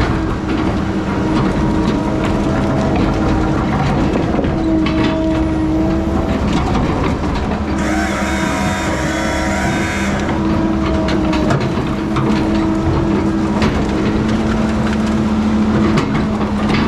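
Diesel engine of heavy logging equipment running steadily under power. About eight seconds in, a high whine and hiss lasts for about two seconds.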